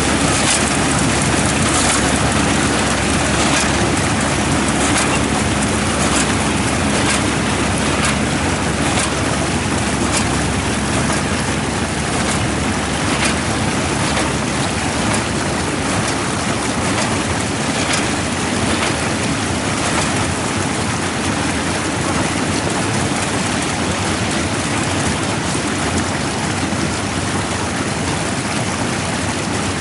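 Kubota ER447 combine harvester running steadily while cutting wheat: a loud, even rush of machine noise with a low engine hum underneath.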